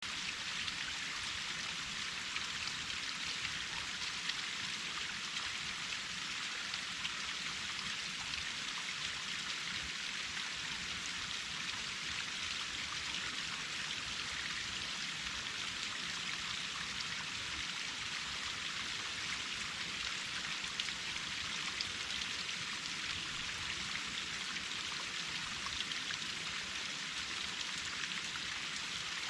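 Waterfall pouring and splashing: a steady, unbroken rush of falling water.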